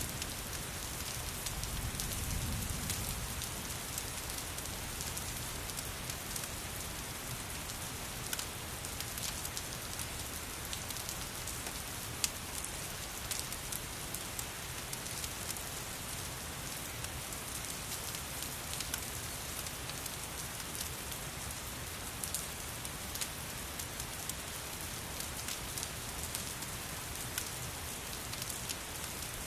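Steady rain mixed with a crackling wood fire: an even hiss dotted with many small sharp pops and ticks. A brief low rumble comes about two seconds in.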